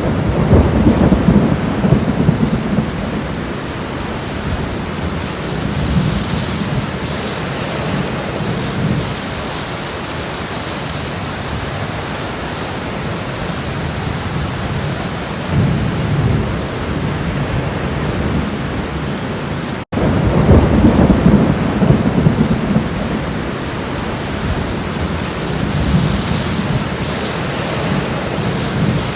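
Home-made thunderstorm sound effects: steady rain hiss with low thunder rumbles swelling about five times, the loudest at the start and just after twenty seconds in. The sound cuts out for an instant about twenty seconds in, where the track jumps straight into a loud rumble.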